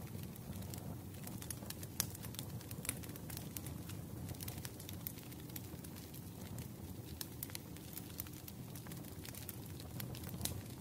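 Wood fire crackling: irregular sharp pops and snaps over a low, steady rumble, with one louder pop about two seconds in.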